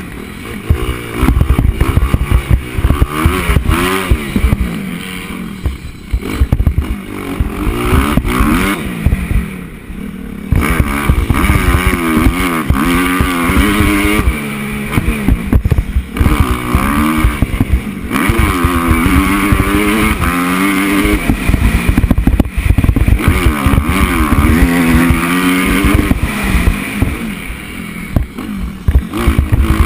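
Motocross bike engine on a practice lap, revving up and dropping off again and again as it goes through the gears and corners, with heavy wind rumble on the microphone.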